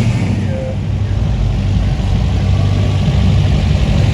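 A car's engine running at low speed with a deep, pulsing exhaust rumble that holds steady throughout.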